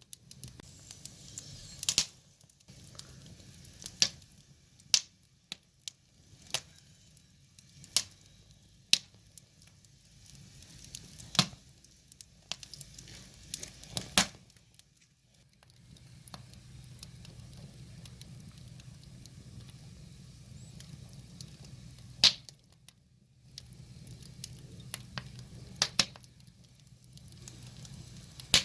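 Wood fire crackling, with sharp irregular pops every second or few over a low steady rumble.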